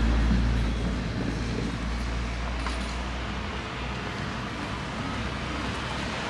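Street traffic. A vehicle's low engine rumble fades away in about the first second, then a steady traffic hum carries on.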